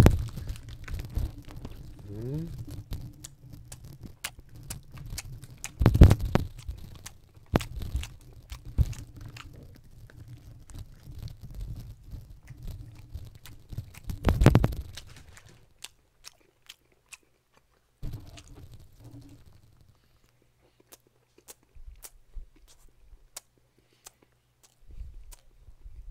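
Close-miked chewing and biting into a whole block of pressed boiled pork (pyeonyuk), with the crinkle of its plastic wrapping through the first half. There are two louder bites, about six seconds in and again past fourteen. After that only sparse soft mouth clicks remain.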